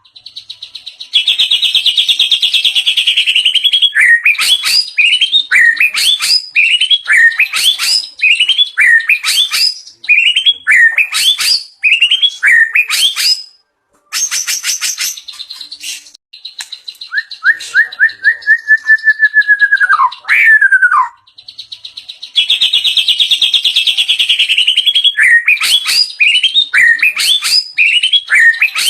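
White-rumped shama singing loudly in a varied song rich in mimicked phrases: rapid runs of sharp whistled notes, a long sweeping whistle in the middle, and a buzzy trill near the start and again about two-thirds of the way through.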